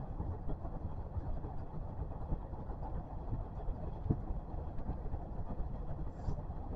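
Kintetsu electric train running, heard from inside the car: a steady low rumble with scattered light knocks and one sharper knock about four seconds in.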